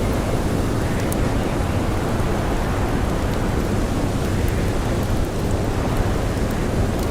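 Steady snowstorm wind: a dense, unbroken rushing noise heaviest in the low end, with a few faint crackles of a campfire.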